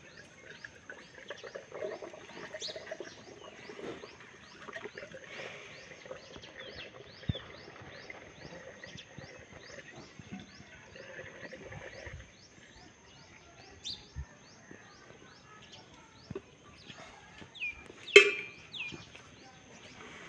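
Outdoor animal sounds: a steady high-pitched drone with short chirps repeated two or three times a second, then a single loud, sharp call near the end.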